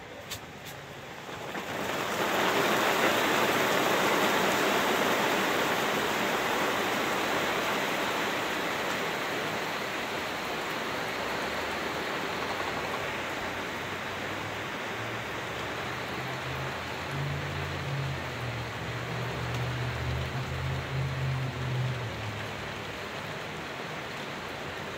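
Heavy rain pouring down, swelling in suddenly about two seconds in and easing slightly after. A low hum rises beneath the rain for several seconds late on.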